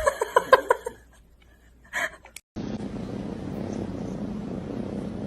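Laughter for about the first second, then after an abrupt cut a domestic cat purring steadily close to the microphone.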